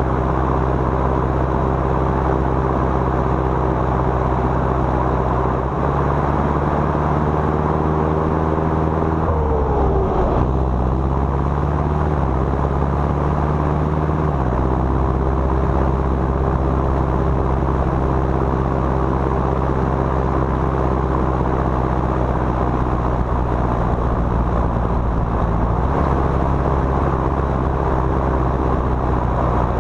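John Deere 6230 tractor's four-cylinder turbo diesel running steadily while hauling a 12-tonne trailer. The engine note shifts a few times, and about ten seconds in the pitch dips and climbs back.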